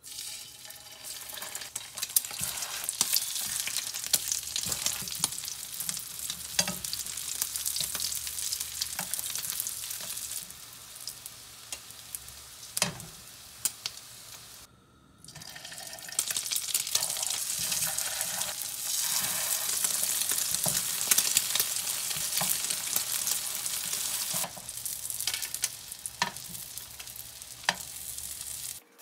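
Oil sizzling in a frying pan as egg-battered skewers and then small egg-coated meat patties shallow-fry, a steady hiss with scattered sharp crackles. It drops out briefly about halfway through, then the sizzling resumes.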